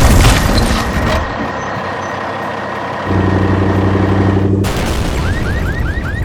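Cartoon truck sound effects: a sudden loud hiss like an air brake, then steady engine noise. About three seconds in, a low steady drone sounds for under two seconds and cuts off sharply. A quick run of short rising chirps follows near the end.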